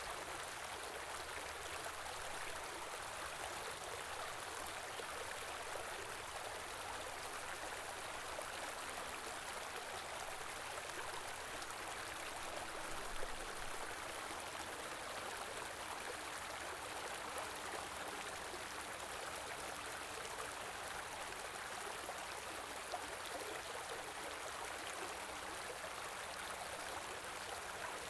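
A small river or stream running steadily over rocks, a continuous rushing and babbling of water, with one brief louder splash about halfway through.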